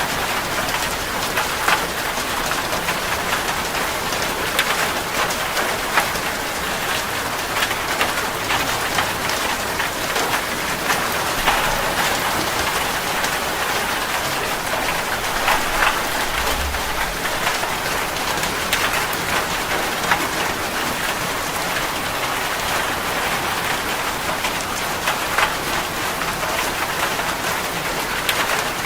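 Steady rain falling on a surface, an even hiss with many separate drop taps, and a brief low rumble about two-thirds of the way through.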